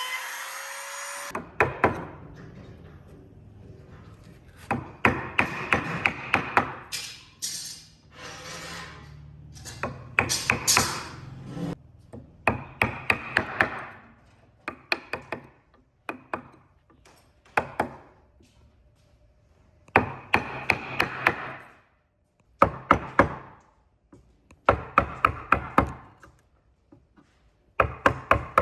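Hammer blows on wood in quick bursts of several strikes, about five a second, with short pauses between bursts.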